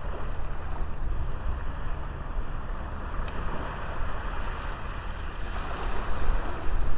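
Sea waves washing onto a small beach, one wash swelling a little about two thirds of the way through, with wind rumbling on the microphone.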